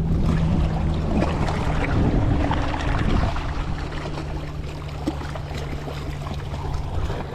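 Strong wind rushing and buffeting over the microphone, a steady loud rumble.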